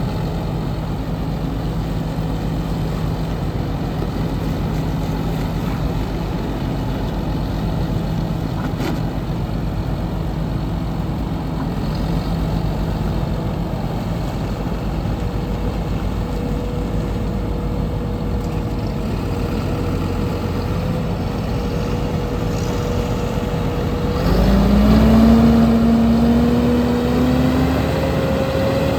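2007 John Deere 7830 tractor's six-cylinder diesel engine running steadily at low speed, then revved up about 24 seconds in, louder, its pitch climbing slowly until the end.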